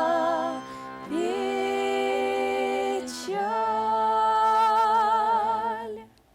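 Female vocal trio singing the song's closing phrase in close harmony, holding long notes with vibrato. The last chord is held for about three seconds and fades out just before the end.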